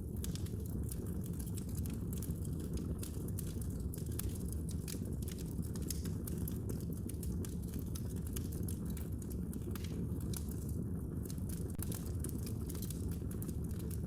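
Wood fire burning in a fireplace: a steady low rumble of flames with a constant scatter of small sharp crackles and pops.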